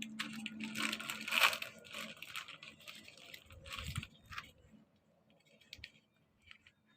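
Wrapper of a strawberry ice cream cone being torn open and crinkled: a run of rustling and tearing lasting about four seconds, loudest about a second and a half in, then a few faint ticks.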